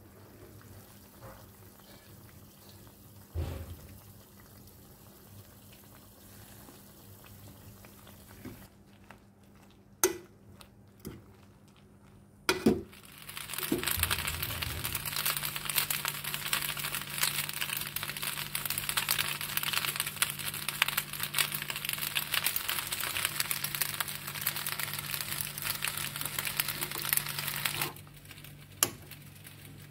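Macaroni stir-frying in a hot pan as it is stirred: a loud, dense sizzling crackle that starts about 13 seconds in and cuts off suddenly near the end. Before it, a steady low hum with a few sharp knocks of a utensil on the pan.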